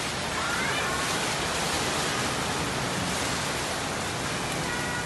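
Heavy rain pouring down onto flooded pavement and parked cars, a steady, even hiss.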